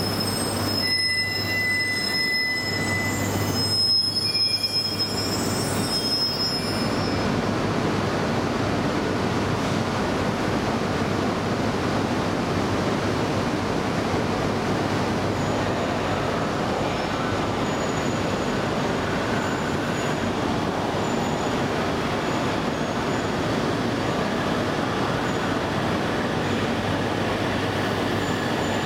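E2 series Shinkansen train pulling out of a station: high steady tones for the first several seconds, then a steady rush and rumble as the train moves off and its cars slide past.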